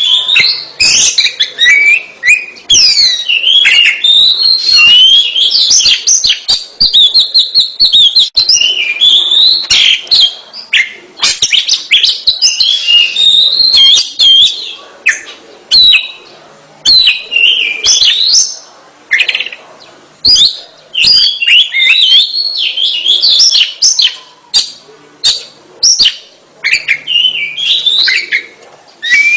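Oriental magpie-robin (kacer) singing in full voice, the sustained 'gacor' song prized by bird-keepers. It is a loud, varied stream of quick whistled phrases and sharp chirps that slide up and down in pitch, broken by brief pauses.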